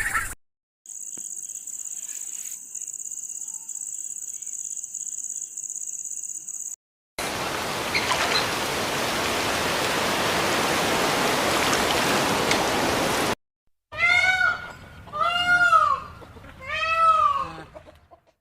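A cat meowing three times, each meow a rising-then-falling call, coming after a steady high-pitched whine and then several seconds of even rushing noise.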